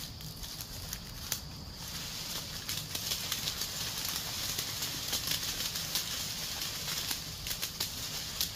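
Rustling with scattered sharp clicks and light knocks as cashews are gathered by hand. A steady high drone runs through the first couple of seconds, then the rustling broadens into a hiss.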